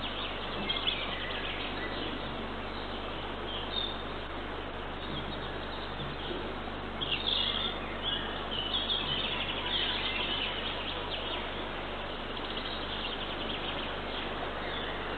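Small songbirds chirping and singing off and on over a steady outdoor hiss.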